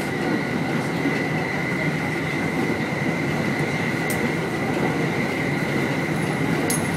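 Electric commuter train running at speed, heard from inside the front car: a steady rumble under a constant high whine, with two sharp clicks, one about four seconds in and one near the end.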